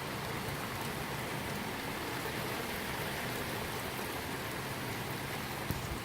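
Heavy rain from a passing squall line falling and splashing on surfaces: a steady, even hiss.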